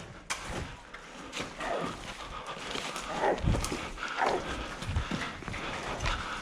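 Footsteps of people running, with irregular knocks and thumps.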